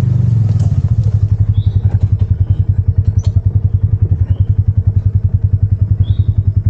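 Polaris Ranger midsize UTV's single-cylinder engine dropping from a run to a lumpy idle about half a second in, then chugging evenly at about eight beats a second.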